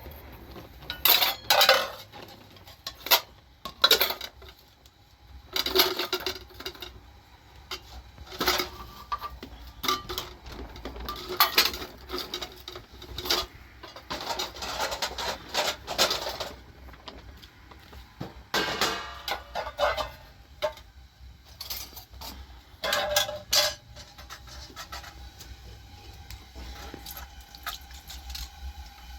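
Pots, dishes and cutlery being handled, with scattered clinks and knocks, some ringing briefly.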